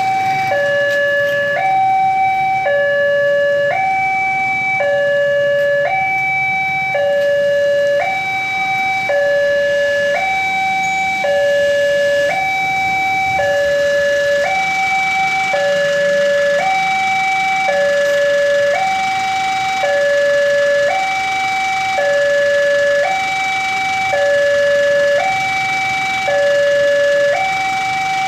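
Railway level-crossing warning alarm sounding a steady two-tone hi-lo pattern, switching pitch about once a second. Rain hiss grows louder from about halfway.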